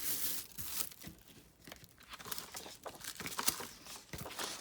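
Paper rustling and crinkling, with scattered small clicks and taps from craft supplies being handled on a table.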